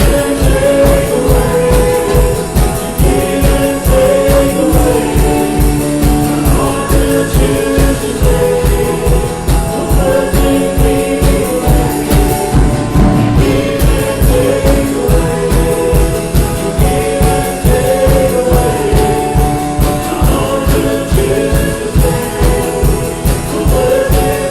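Worship music: singers with a band playing to a steady beat.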